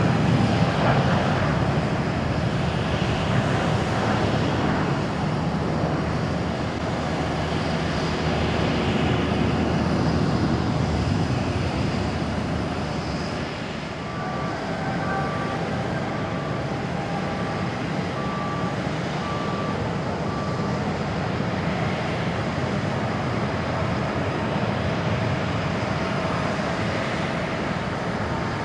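Jet airliners at take-off power, a continuous heavy engine noise. First an ANA Boeing 777-200's twin engines, then, after a short dip about halfway through, a JAL Airbus A350-900 with Rolls-Royce Trent XWB engines. A faint beep repeats about once a second for several seconds just after the dip.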